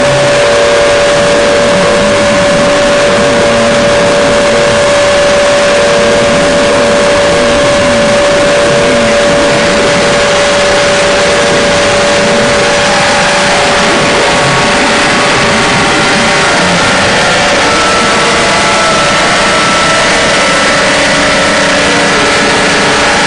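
Harsh noise drone music: a loud, unbroken wall of distorted noise with steady droning tones held over it. The strongest drone fades out about halfway through, and other held tones come in later.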